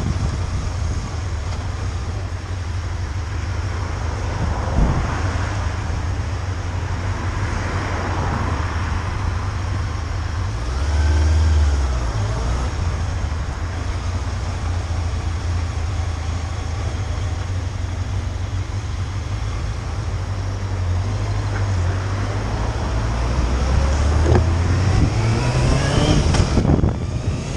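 Motorcycle riding on the road, its engine running under a heavy, steady low rumble of wind on the microphone; near the end the engine's pitch rises as it speeds up.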